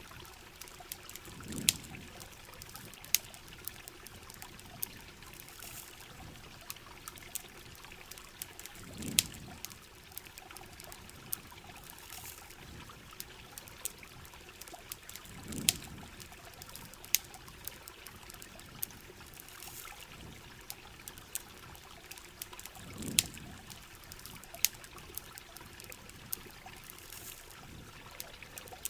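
Rain falling steadily with trickling, pouring water, over a campfire crackling with frequent sharp pops. A few soft low thumps come every six or seven seconds.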